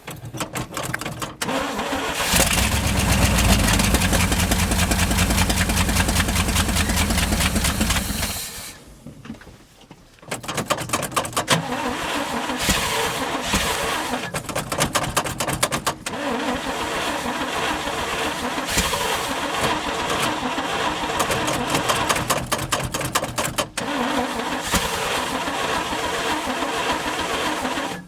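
A 1971 International 1890 truck's gasoline engine being cranked by its starter. It catches and runs roughly for about six seconds on the fuel poured into the carburetor's float bowls, then dies. It is cranked again for the rest of the time without starting, because the fuel pump has not yet begun pulling fuel.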